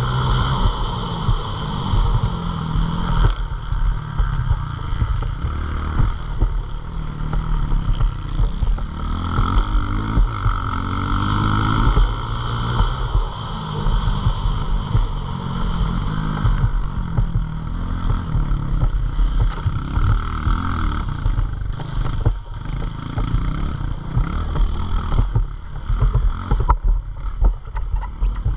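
Pit bike engine revving, its pitch repeatedly rising and falling as the bike accelerates and backs off. Clicks and knocks come through in the last few seconds.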